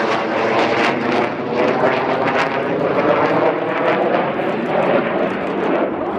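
Fixed-wing aircraft engine noise: a loud, steady rush with faint wavering tones, from a plane flying at an airshow.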